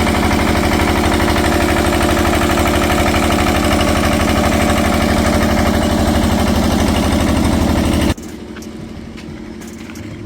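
A small engine running steadily and close by, with an even rapid pulse, cutting off abruptly about eight seconds in. After it, a quieter steady hum with scattered clicks.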